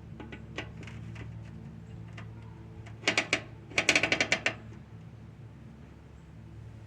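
A fishing reel ratcheting in two short bursts of rapid clicks, about three seconds in and again a second later, over a steady low hum.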